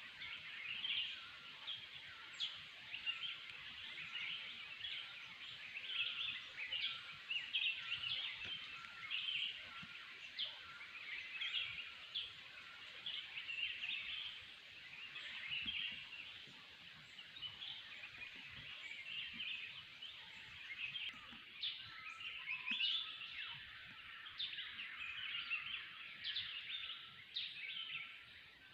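Forest bird chorus: many birds of several kinds chirping and calling at once, in a dense, unbroken stream of short overlapping calls.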